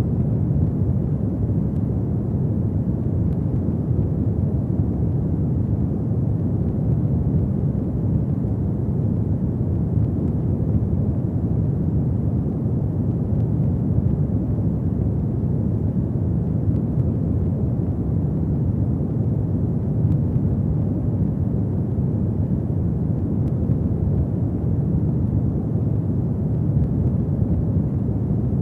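Fireplace fire burning with a steady, deep rumble.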